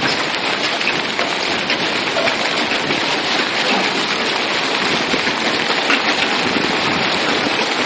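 Heavy rain falling steadily: a dense, even hiss flecked with many small drop hits.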